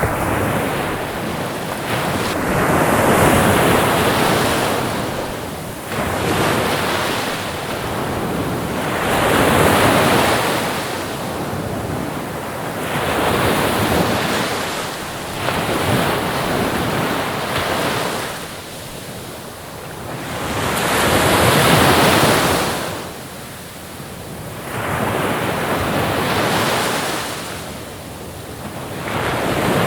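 Ocean waves breaking and washing ashore, the surf noise swelling and ebbing in long surges every few seconds.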